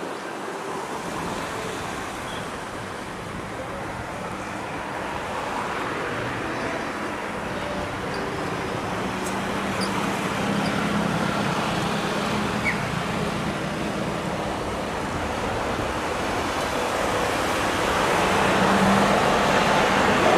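Jet engines of a landing Boeing 737 MAX 8: a steady rushing noise that grows louder toward the end.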